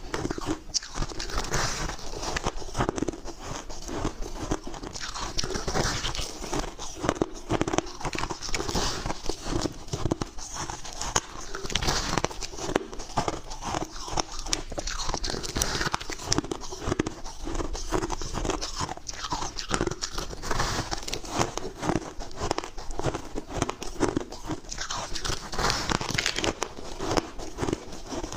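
Close-up bites into soft, chunky freezer-frost ice, a steady run of irregular crunching and crackling.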